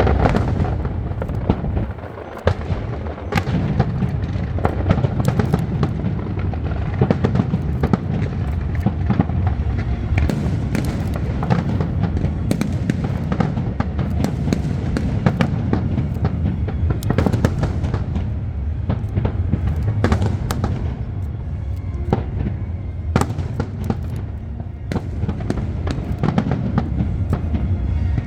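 Aerial fireworks going off in quick succession: a continuous low rumble of bursts, dense with sharp cracks and crackling.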